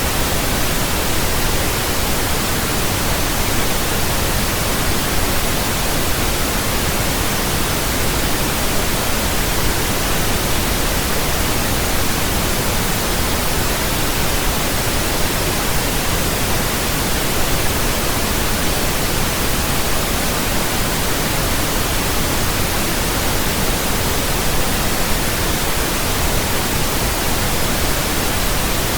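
Steady pink noise: an even, unchanging hiss spread across all pitches, with more weight in the low end than white noise.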